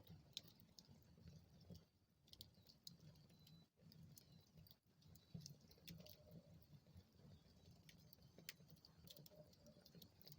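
Faint crackling of a wood fire in a fireplace: scattered sharp pops and ticks over a soft low rumble.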